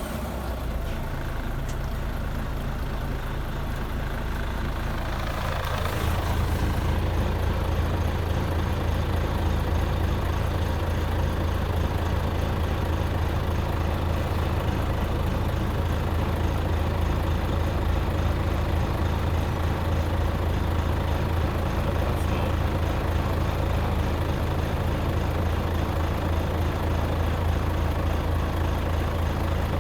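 Volvo FH4 truck's diesel engine idling just after being started, a steady low running note that grows louder about six seconds in and then holds steady.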